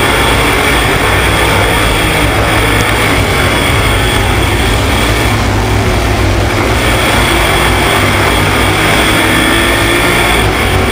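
305 sprint cars' V8 engines running at speed on the track: a loud, steady, dense drone with no break.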